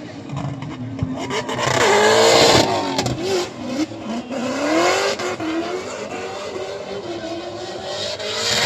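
A vehicle engine revving hard, its pitch climbing and falling repeatedly, loudest about two seconds in, then running on at a wavering, lower pitch.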